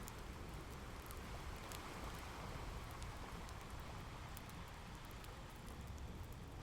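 Fireplace crackling with scattered small pops over the steady wash of ocean waves.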